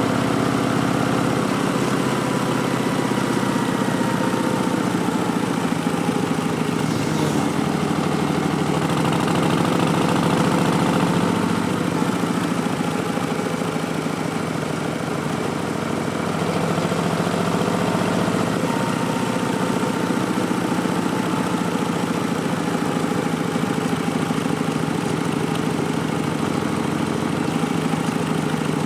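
Harley-Davidson Street Bob's Milwaukee-Eight V-twin running through a Vance & Hines Twin Slash slip-on exhaust while riding, its note rising and falling gently with small throttle changes.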